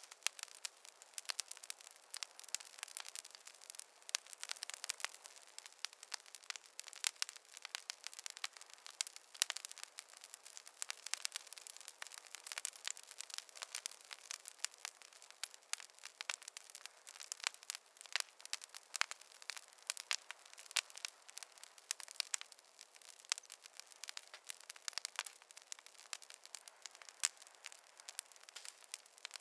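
Wood fire crackling: a dense, irregular stream of small pops and snaps, several a second, over a faint hiss, with no low rumble of flames.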